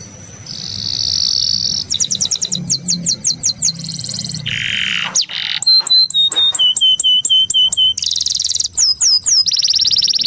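Domestic canary singing a long, fast song of varied phrases: rapid trills, buzzy rolls and strings of repeated downward-swooping notes. It starts a little softer and is in full song about a second in.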